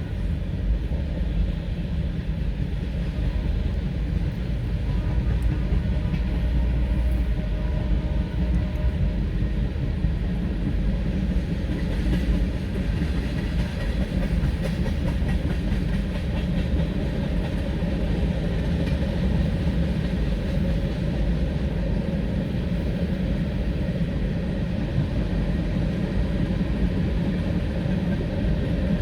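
Freight train rolling past, with the steady noise of its cars' wheels on the rails going on unbroken throughout.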